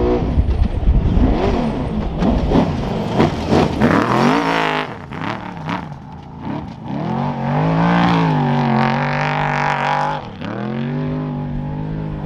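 Off-road race truck engine revving, its pitch climbing and falling repeatedly: a sharp rise about four seconds in, easing off, climbing again around eight seconds, then a brief dip before it settles to a steady note near the end.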